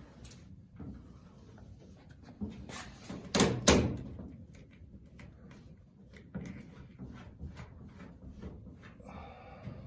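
Scattered knocks and clicks of handling and work, with two loud knocks close together about three and a half seconds in.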